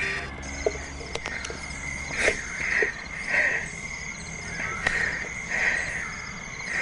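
Rainforest ambience of frogs and insects calling: a steady high drone with a pulsing call repeating a little less than twice a second.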